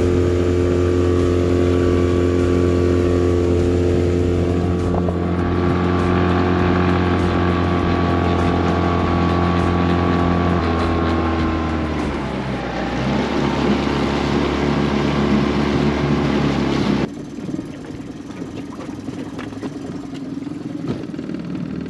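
Boat's outboard motor running steadily under way. About eleven seconds in its pitch falls as it is throttled back, and about seventeen seconds in the sound drops off suddenly to a much quieter low rumble.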